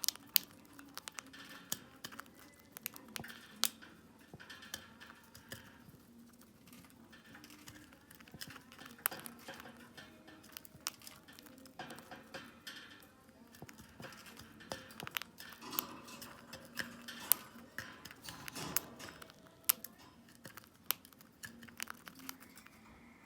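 Cockatiel crunching crisp food in its beak at a dish: irregular sharp crackling clicks, several a second at times, with pauses between.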